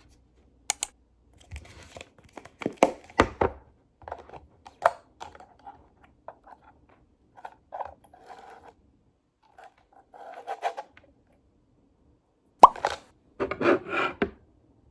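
Close-up handling sounds of small objects: scattered light knocks, clicks and rubbing, with a sharp tap near the end followed by a short burst of rustling.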